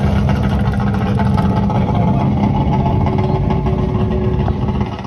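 A vintage racing car engine idling, loud and steady. It drops away about four and a half seconds in.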